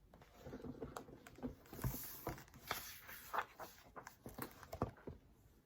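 A picture book's paper pages rustling as they are handled and turned, with scattered small clicks and taps.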